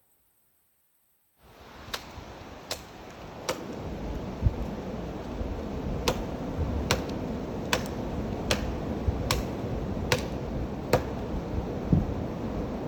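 Axe chopping into a standing tree trunk to fell it: about ten sharp strikes a little under a second apart, over a steady rush of blizzard wind on the microphone. The sound starts suddenly after a moment of silence.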